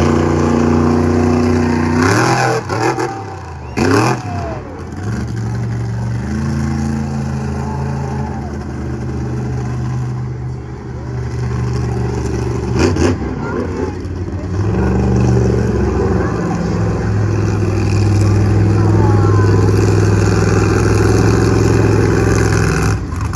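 Monster truck engine revving hard during a run, the pitch rising and dropping as the throttle is blipped, then held steadily high through most of the second half.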